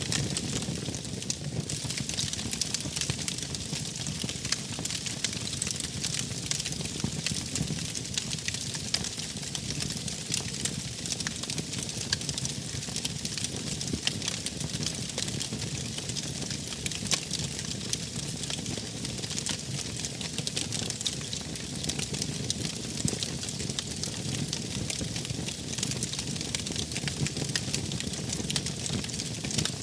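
Wood fire burning, with many small crackles and pops over a steady low rumble.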